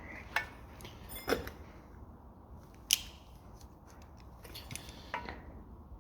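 A few separate sharp metallic clinks and taps as hand tools work at a core plug in a Ford Pinto engine block; the sharpest comes about three seconds in.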